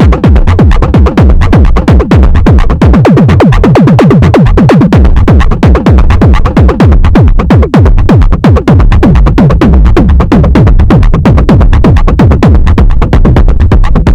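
Techno played on a Moog DFAM analogue drum synthesizer and an Arturia MicroFreak synthesizer: a fast repeating sequence of short notes, each falling quickly in pitch, over a heavy low kick pulse.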